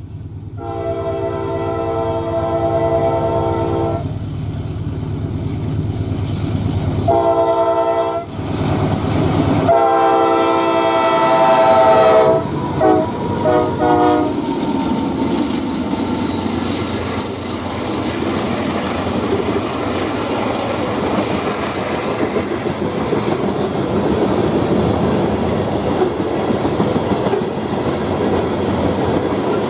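Freight locomotive horn sounding its crossing signal: a long chord, a short blast, then a long blast that breaks into a few short stabs as the lead unit, CSX AC44CW 553, reaches the crossing. The rest is the loud steady rumble of the passing train, with tank-car wheels clicking over the rail joints.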